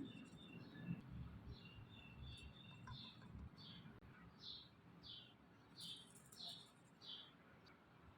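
Faint bird chirping: a quick twitter, then short high chirps repeated every half second or so. Soft low knocks run under it in the first few seconds.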